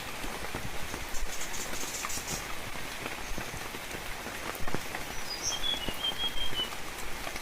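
Steady rain falling in a forest, with scattered individual drops ticking through the hiss. A little past the middle, a bird calls a quick series of short high chirps.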